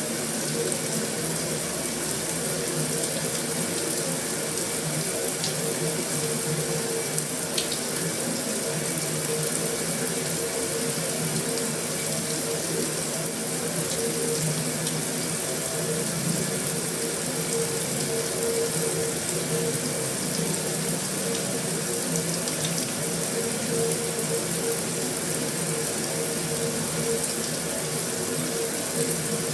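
Heavy rain drumming on a metal roof: a dense, steady hiss of rain with a few sharper drop ticks standing out now and then.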